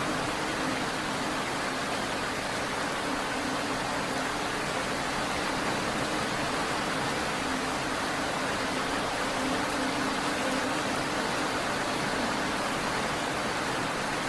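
Steady rain, an even unbroken hiss with no single drops or changes standing out, over a steady low hum.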